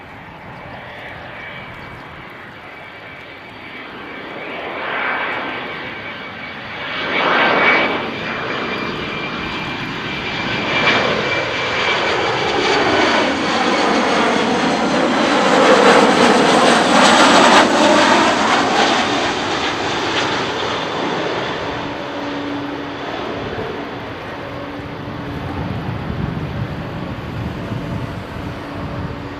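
Boeing 737-400 jet airliner on landing approach. Its CFM56-3 turbofan engines whine and rumble, swelling to a peak a little past halfway as it passes, with the whine falling in pitch, then fading away. Two short bursts of noise come early on.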